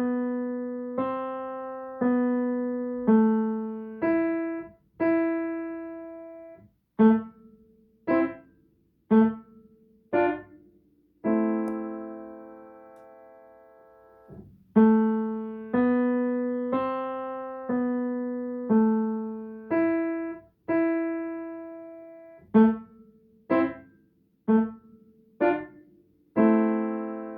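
Piano playing a slow, simple beginner melody in middle C position, mostly single notes about one a second. Two passages have quick, short staccato notes, and a couple of chords ring on.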